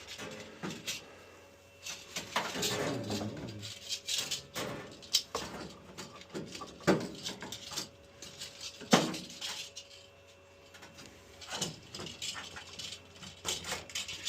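Irregular clicks, knocks and rubbing from boiler parts and vent fittings being handled and pushed into place, with a couple of short squeaks, one about two seconds in and one near the middle.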